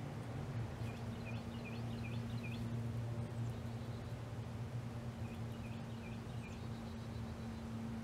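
A bird calling in two short runs of quick high chirps, five notes about a second in and four more about five seconds in, over a steady low mechanical hum.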